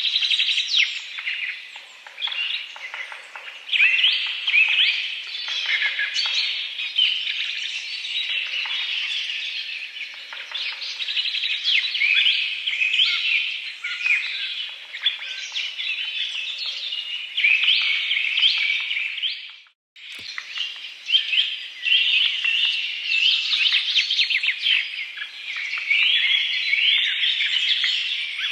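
Dense chorus of small birds chirping and twittering continuously. The sound cuts out for an instant about twenty seconds in.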